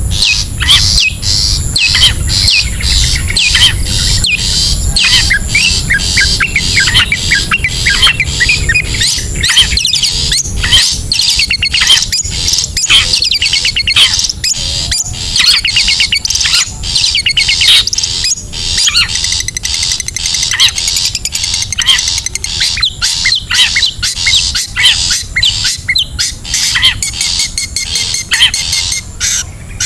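Long-tailed shrikes (cendet) calling in a continuous, rapid stream of harsh chattering, squawks and quick chirps, over a steady high-pitched whine.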